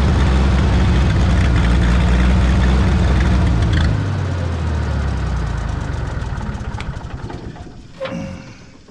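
Minneapolis-Moline tractor engine running at idle, then shut off about four seconds in, its firing slowing as it coasts down and dies away near the end.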